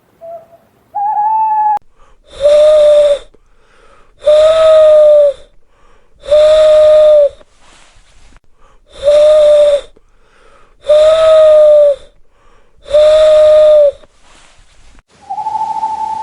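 An owl calling: six loud, evenly spaced calls, each about a second long and about two seconds apart, all on the same steady pitch. Two shorter, higher calls come before them, and a different, higher steady note begins near the end.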